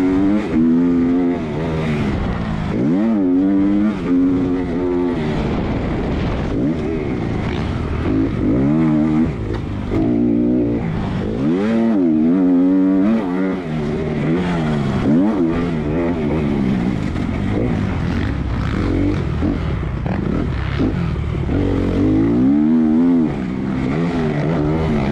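Motocross dirt bike engine racing, its pitch rising and falling again and again as the throttle opens and closes through the corners and straights.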